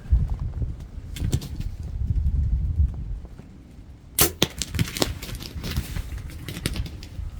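A bow shot at a turkey gobbler: one sharp, loud snap of the string and arrow about four seconds in, with further clicks after it. Low thumping and rustling come before it.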